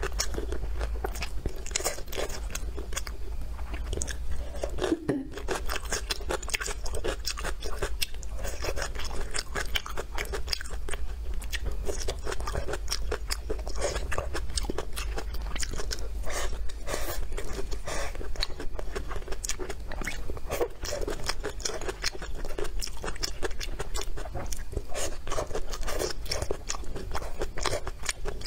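Close-miked chewing and crunching of stir-fried celery and pork with rice: a continuous stream of small crisp mouth clicks over a steady low hum.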